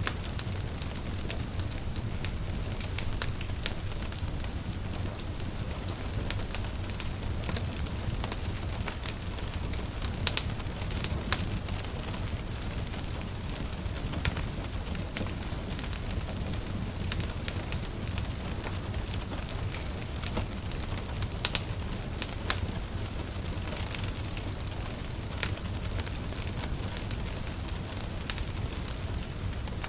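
Wood fire crackling in a fireplace, with irregular sharp pops and snaps over a steady low rumble, mixed with a constant patter of rain. A few louder pops come about a third of the way in and again past the middle.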